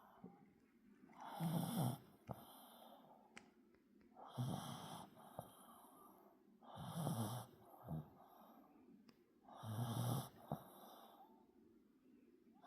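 Pomeranian dog snoring while sound asleep: four snores about two and a half to three seconds apart, with quiet breathing between them.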